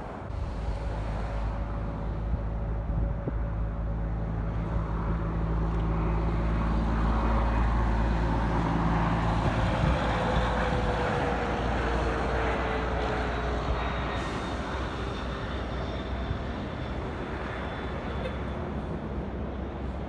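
Jet airliner passing on its landing approach: engine noise swells to a peak about halfway through and then fades, with a whine that drops in pitch as it goes by.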